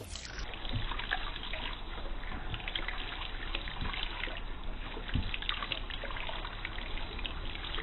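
Water trickling steadily, with small scattered splashes and drips.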